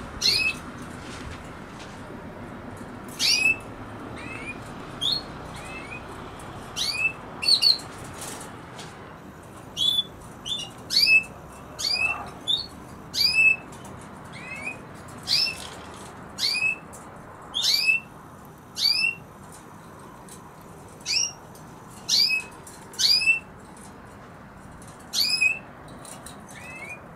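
A bird calling over and over with short, sharp chirps, about one a second and often in pairs, over a faint steady background hum.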